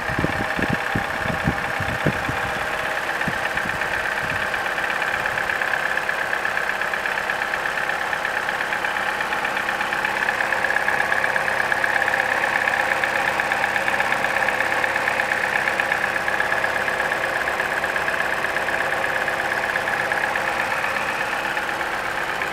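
Opel Corsa's Ecotec petrol engine idling steadily, heard close up in the open engine bay, with a busy mechanical chatter and a high steady whine over the running. A few low thumps sound in the first two seconds.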